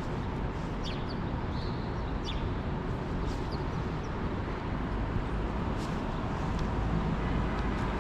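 Faint, brief high chirps from small birds scattered over a steady low city rumble.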